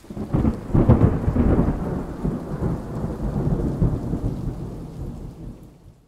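A long, deep rumble that starts suddenly, peaks about a second in and then slowly dies away.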